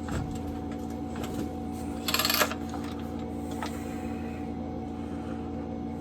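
A brief metallic rattle of about half a second, about two seconds in, and a single sharp click later, from the chainsaw being handled on the bench, over a steady background hum.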